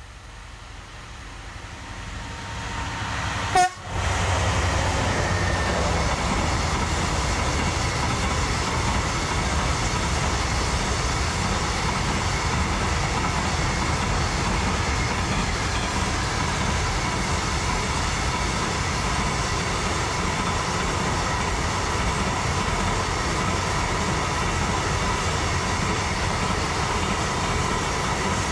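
A train approaching and passing close by: the sound swells over the first few seconds, there is a sudden sharp knock about three and a half seconds in, then a loud steady rumble of the passing train continues to the end.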